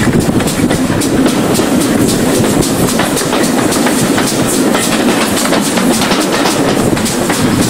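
Preserved steam-hauled passenger train running along the line: steady rumble with carriage wheels clicking over rail joints and pointwork, heard from a carriage window.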